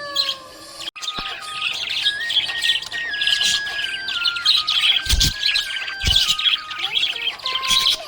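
Budgerigars chirping and warbling continuously in a busy, high-pitched chatter, with a brief break about a second in.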